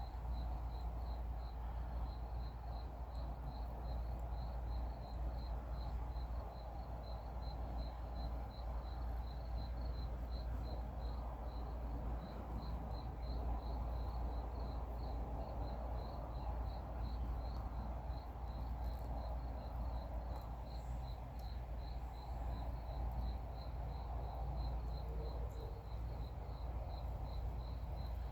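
A cricket chirping steadily, a short high chirp repeated about two to three times a second, over a low steady rumble.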